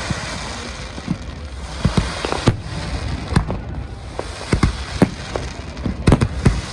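Aerial fireworks bursting: a run of irregular loud bangs, with clusters of several close together near the end, over steady crackling.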